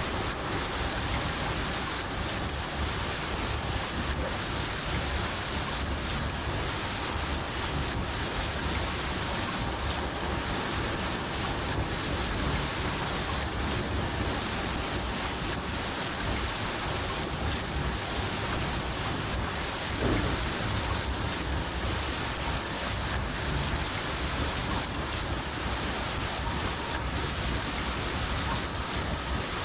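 A cricket chirps in a steady, even rhythm, about two high chirps a second, over continuous rain noise with a low rumble underneath.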